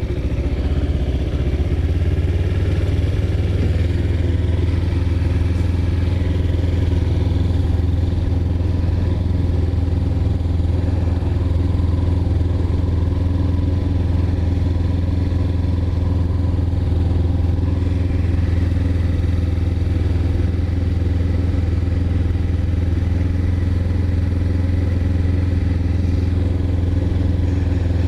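2009 Kawasaki Ninja 250R's parallel-twin engine running steadily at an even speed, a constant low drone with no revving.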